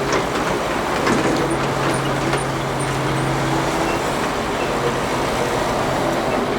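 Excavator diesel engine and hydraulics running steadily under work. A low steady hum rises out of the noise for about two seconds in the middle, and there are a few light metallic clicks.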